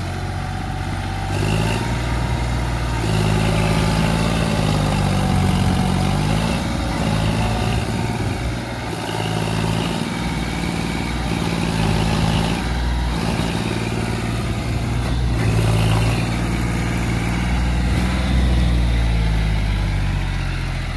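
Tractor diesel engine labouring under heavy load, its revs rising and falling as it strains to pull a trolley stuck in mud.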